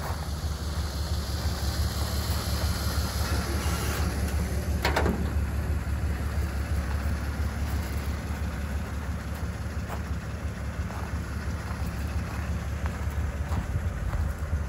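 The 1948 Lincoln Continental's 292 cubic-inch V12 idling steadily, a low even rumble, with a single sharp click about five seconds in.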